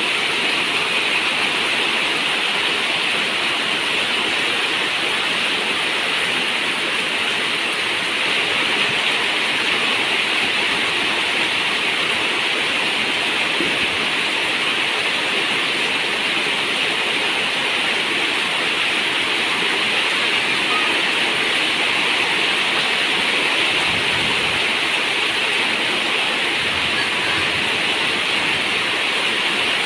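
Steady rain on a zinc roof: an even, unbroken hiss with no single drops standing out.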